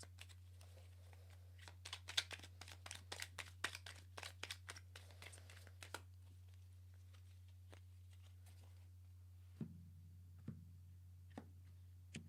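Tarot cards being shuffled and handled: a quick run of crisp card flicks and rustles from about two to six seconds in, then a few soft taps as cards are laid down on the table near the end. A low steady hum sits underneath.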